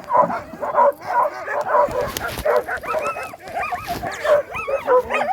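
A team of sled dogs barking and yipping all at once, a dense overlapping chorus of short, high calls.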